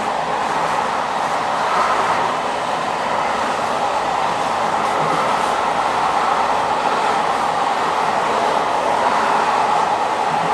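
Train in motion: the steady running noise of the wheels and carriage on the rails, even throughout.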